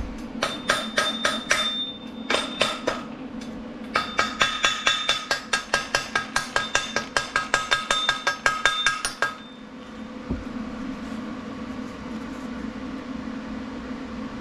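A hammer striking steel in quick repeated blows, each strike ringing with a clear metallic pitch: a couple of short runs, then a longer run of about five blows a second that stops about nine seconds in.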